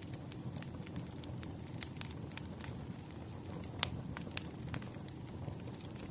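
Wood fire crackling: scattered sharp pops and snaps over a low, steady rumble of burning logs, with one louder pop a little past halfway.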